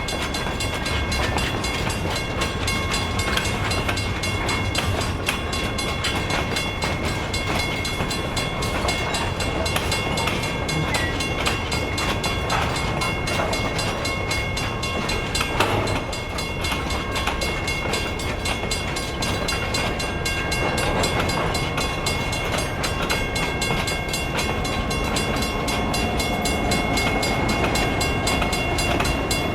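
Escanaba & Lake Superior Railroad freight train on the move, a steady rumble of wheels on rail with no pauses.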